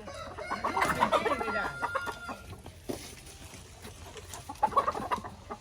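Chickens clucking and squawking in a busy flurry for the first two or three seconds, then again briefly near the end.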